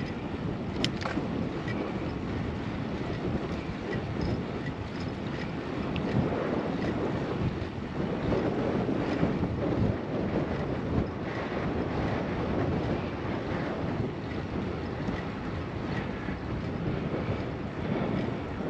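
Wind rushing over a GoPro action camera's microphone while riding a bicycle: a steady rushing rumble, with a single click about a second in.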